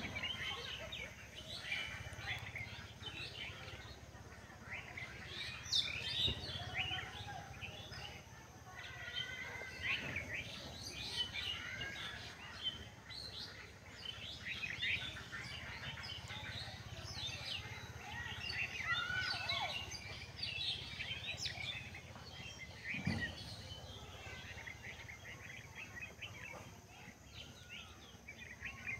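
A chorus of small birds chirping and calling, many short overlapping chirps and whistles, thick and unbroken.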